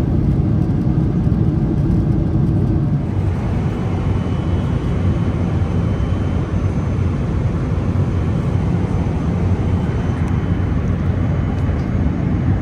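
Boeing 777-300ER's GE90 engines and airflow heard as a steady low rumble inside the cabin. About three seconds in, the sound turns broader and hissier.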